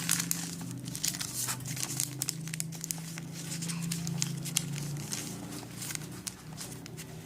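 A sheet of paper being folded and creased by hand, with irregular crisp crinkles and rustles, over a steady low hum.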